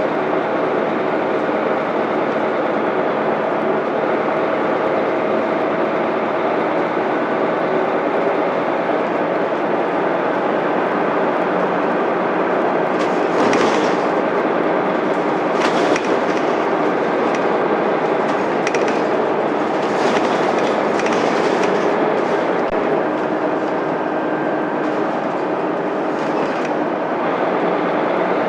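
Mitsubishi Fuso Aerostar bus's 6M70 inline-six diesel running steadily under way, heard from inside with road noise. Clicks and rattles from the body come in during the second half.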